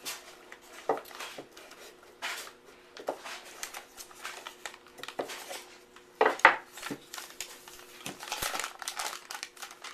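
Irregular knocks, clicks and crinkling of objects being handled and set down on a work surface, the loudest a pair of knocks about six seconds in, with rustling near the end. A faint steady hum runs underneath.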